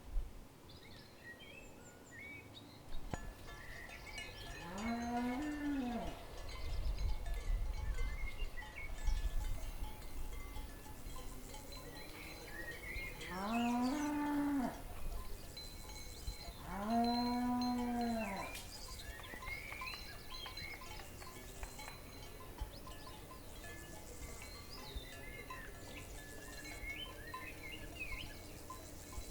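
Cows mooing three times, each a long call that rises and falls in pitch. Small birds chirp faintly in between.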